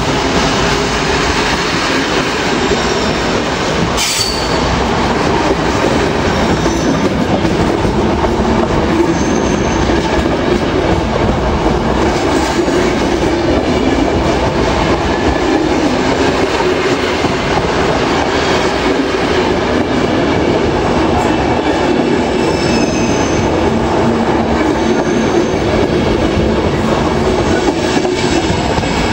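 Passenger coaches rolling past close by as the train pulls out, their wheels rumbling steadily on the track, with brief high wheel squeals now and then and a single sharp click about four seconds in.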